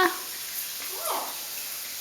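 Solomon Island Eclectus parrot giving one brief, soft vocal sound about a second in, answering a prompt to talk.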